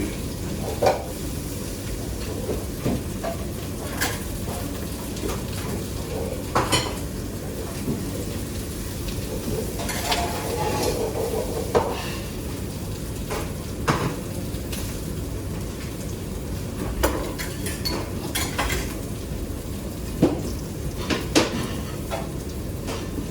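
Kitchen work: utensils clicking and knocking against pans and dishes every second or two over a steady sizzling hiss.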